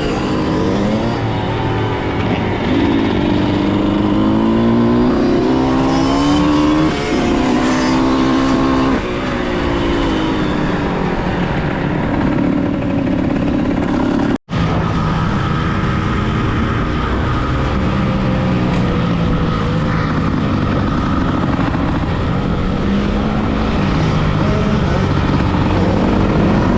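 Yamaha YZ125 two-stroke single-cylinder dirt bike engine revving hard and shifting up through the gears, its pitch climbing in steps and falling back. The sound cuts out for an instant about halfway through.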